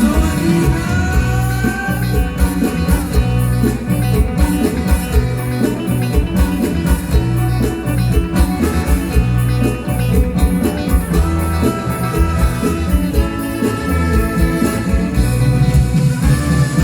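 Live Thai mor lam band music: a steady, driving beat of drum kit and bass with held melody lines on top.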